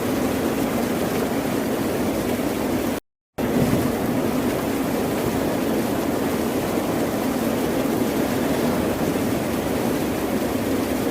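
Steady, even wash of ocean surf noise with no distinct wave swells, broken by a brief dropout to silence about three seconds in.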